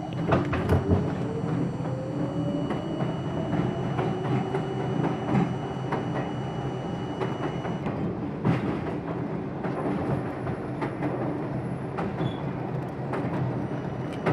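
R42 subway car accelerating, its traction motor whine rising steadily in pitch over the first half, with wheels clattering and knocking over the rail joints.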